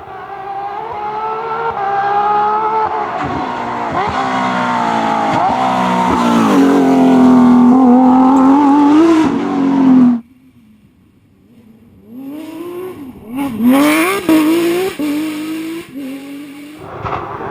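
Rally car engines at full throttle on a stage: one car accelerates through its gears and holds a high steady note before the sound cuts off abruptly about ten seconds in. After a brief quieter gap, another car revs up and down through shifts and lifts.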